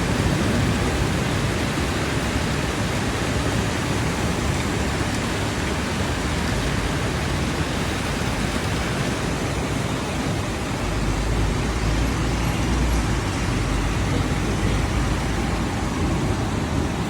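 Heavy rain falling in a steady hiss. A low rumble swells for a couple of seconds just past the middle.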